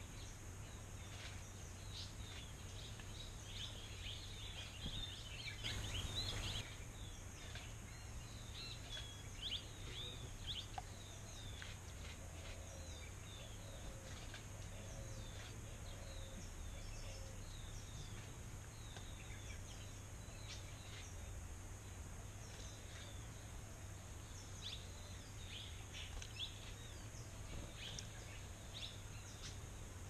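Small birds chirping: many short, quick high chirps scattered throughout over a steady outdoor hiss. A brief rush of noise comes about six seconds in.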